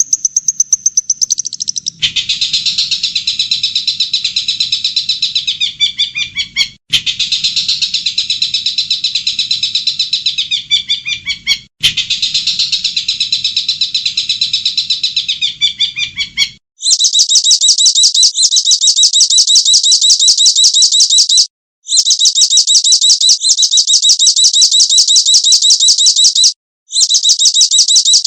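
Looped recordings of songbird song. First comes a dense, rapid chattering warble, broken off abruptly twice. From about 17 s a very fast, high, evenly repeated trill takes over, in long runs with two short gaps.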